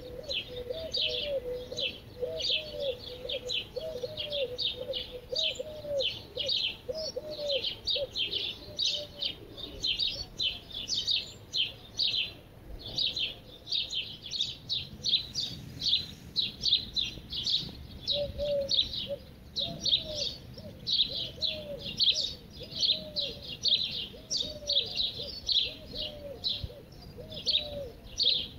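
Birdsong: many birds chirping in a rapid, continuous chatter, with a lower call repeated in quick runs in the first few seconds and again in the second half.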